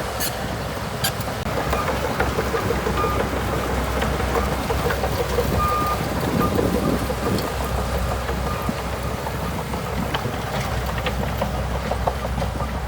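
Crawler bulldozer's diesel engine running steadily at work, with scattered clanks and a few short high squeaks a few seconds in.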